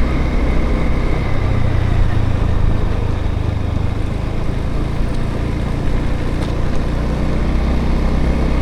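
Motorbike engine running steadily while riding, under a constant rush of road and wind noise.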